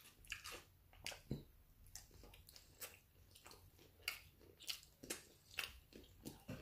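A person chewing a mouthful of taco close to the microphone: a string of soft, wet mouth clicks and smacks, about two or three a second.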